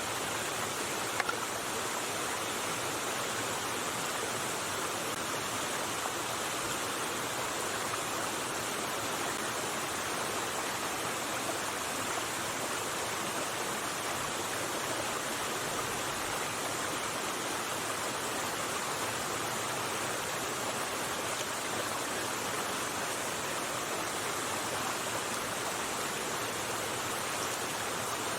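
River water rushing steadily over stones, an even, unbroken flowing sound, with one small click about a second in.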